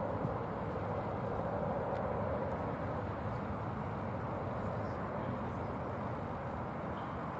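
Distant drone of an ATR72-600's twin turboprop engines as the airliner climbs away after takeoff, a steady rumble that slowly fades.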